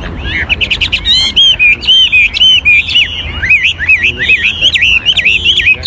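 Chinese hwamei singing loudly, a rapid unbroken run of varied whistled notes that sweep up and down and keep changing phrase.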